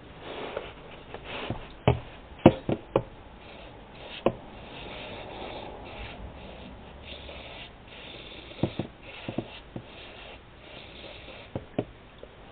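Aerosol brake cleaner sprayed in several short hissing bursts, with scattered clicks and knocks of the can and tools being handled around the drain plug.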